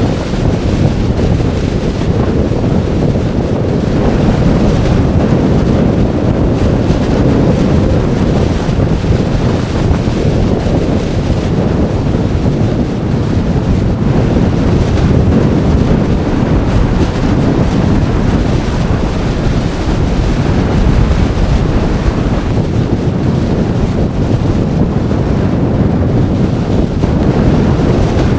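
Storm-force wind buffeting the microphone: a loud, steady low rumble with no letup.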